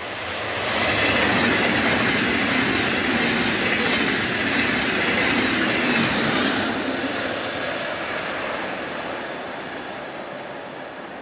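A passenger train passing at speed: a rush of wheel and rail noise that builds within the first second, holds for about six seconds, then slowly fades away.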